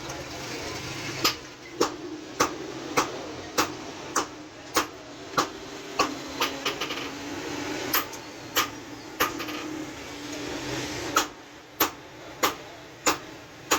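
Hammer blows on metal in a forging rhythm, about one and a half strikes a second, pausing briefly twice, over a steady mechanical hum.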